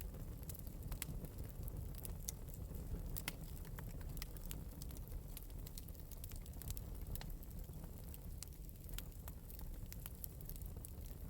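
Wood fire burning in an open metal fireplace: a steady low rumble of flames with frequent small, irregular crackles and pops.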